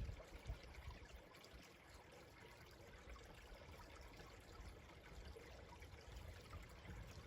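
Faint, steady running water of a small, slow-flowing stream.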